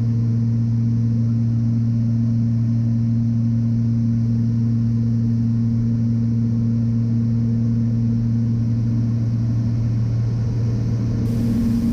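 Beechcraft Baron's twin six-cylinder piston engines running steadily in flight, a constant low drone with an even pitch.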